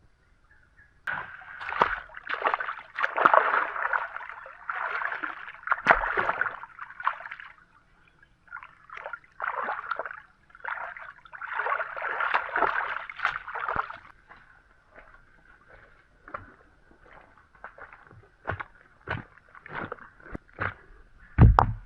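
Water sloshing and splashing in irregular bursts, then a run of scattered short knocks and clicks.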